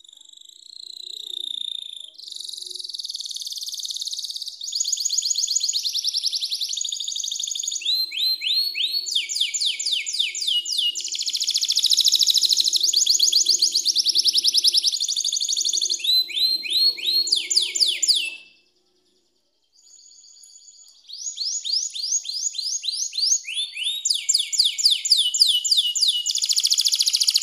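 Domestic canary singing: long, fast trills of repeated high notes in rolling phrases. The song breaks off for about a second past the middle, then resumes.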